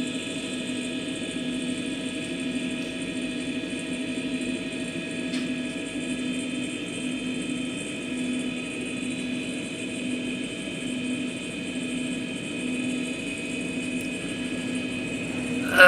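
Steady helicopter cabin noise: engine and rotor drone with a low, regular pulsing and a steady high whine over it.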